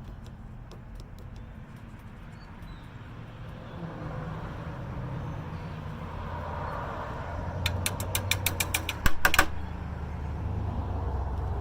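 Steady low rumble of wind on the microphone. Near the end comes a quick run of about a dozen sharp clicks, the sound of a plastic dye container being handled and opened.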